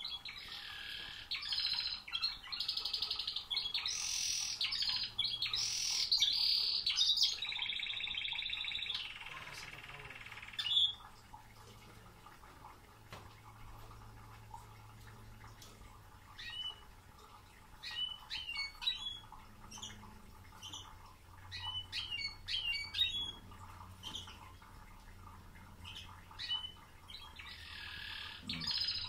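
Male canary singing: a long run of rapid trills and rolls for about the first ten seconds, then short scattered chirps, with another trill starting near the end.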